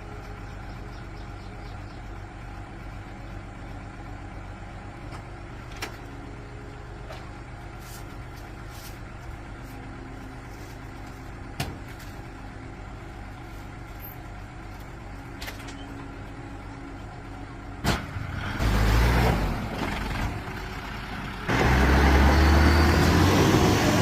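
Truck engine idling steadily with a few light clicks, then revving loudly twice near the end, the pitch rising in the second rev.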